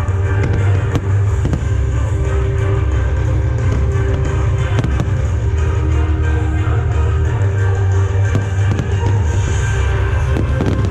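Fireworks going off in a string of sharp bangs over loud music with a heavy bass.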